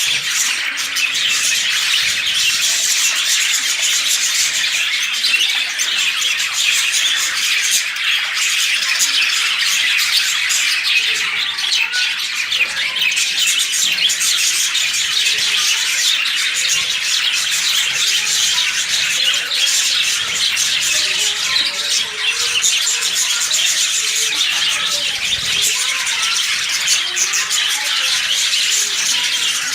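A colony of lovebirds chattering and squawking together in a dense, continuous high-pitched din.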